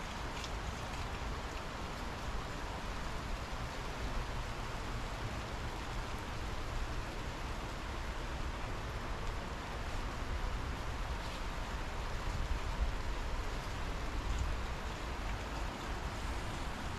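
Steady rain falling during a thunderstorm, an even hiss with a heavy low rumble underneath.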